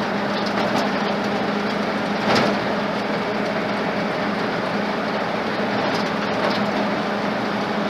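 Truck with a swapped-in Ford flathead engine driving, heard from inside the cab: steady engine and road noise with a constant low hum, and a brief louder swell about two seconds in.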